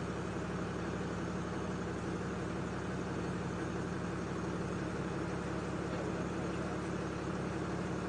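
Pickup truck engine idling steadily, heard from inside the cab: a quiet purr with a low bass note.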